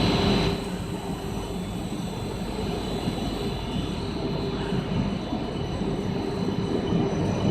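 PVC foam board extrusion line running: a steady machine hum with several constant tones, a little louder in the first half second.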